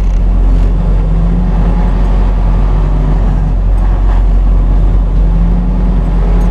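Semi-truck diesel engine running, heard inside the cab: a loud, steady low rumble with a hum that shifts slightly in pitch.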